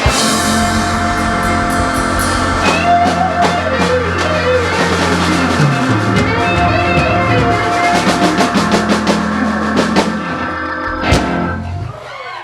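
Live rock band ending the song: drums and cymbals hitting fast under a held final chord with guitar and bass, then one last hit about eleven seconds in that rings out and fades.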